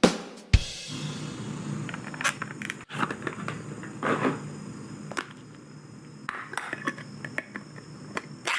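Small metal clinks and scrapes of a tinned-food can being handled and opened, with a louder rasp about four seconds in.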